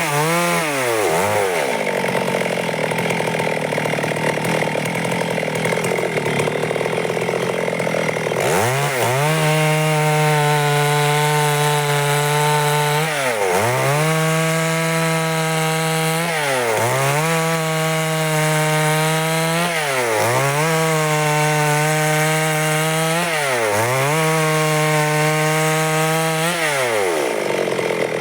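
Stihl two-stroke chainsaw sawing wood. Early on the engine note drops and gives way to a rougher, lower sound for several seconds. Near nine seconds it revs back up high, and from then on the revs sag briefly and recover about every three and a half seconds.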